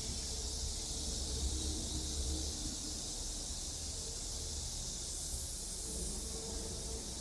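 Steady high-pitched hiss over a low rumble: outdoor ambience during a walk, with no distinct events.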